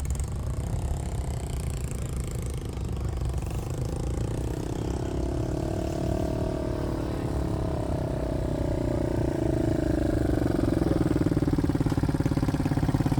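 Motorcycle engines running at low speed, one bike's engine note sliding gradually lower while the sound grows louder over the last few seconds.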